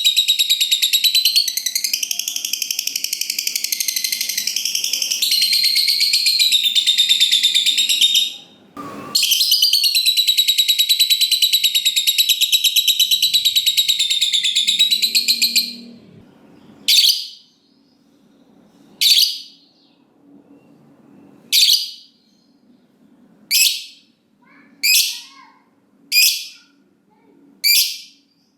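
Lovebird giving its long, rapid, high-pitched chattering trill (the 'ngekek panjang'), one run of about eight seconds, a brief break, then another of about six seconds. After that it gives single short, sharp calls about every two seconds.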